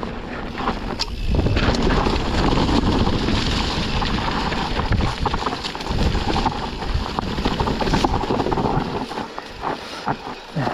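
Wind buffeting the microphone over a steady rush of tyre noise, with frequent small knocks and rattles from a mountain bike riding down a dirt trail.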